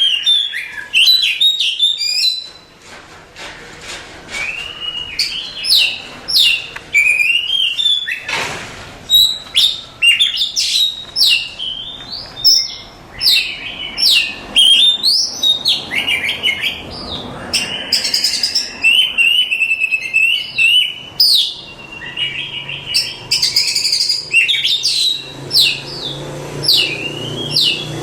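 Oriental magpie-robin singing a long, varied song of quick whistled phrases and sharp chirps, mostly high in pitch, with a brief lull about two to four seconds in.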